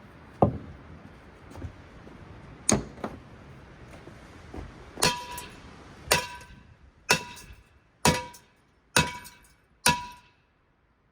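A metal ceiling fan being smashed: a series of hard blows, the later ones coming about once a second, each clanging and ringing briefly.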